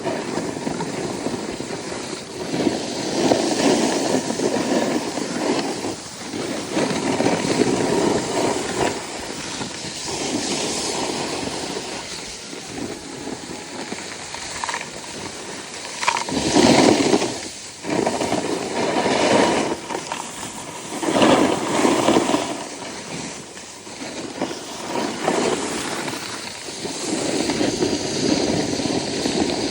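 Snowboard edges scraping and hissing across the snow in a run of turns, each turn swelling and easing every two to three seconds, with a few loud scrapes around the middle.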